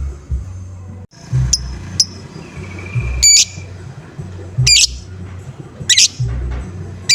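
Lovebird giving short, shrill 'ngoek' calls about every second and a half, after two brief chirps, over background music with a steady bass beat.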